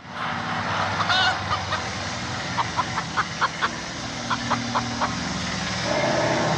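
Chicken clucking in short, quick calls, with a run of about eight near the middle, over a steady low hum that grows louder near the end.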